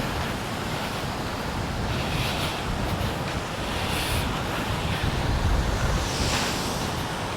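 Small sea waves washing onto the beach in soft swells every couple of seconds, over wind rumbling on the microphone.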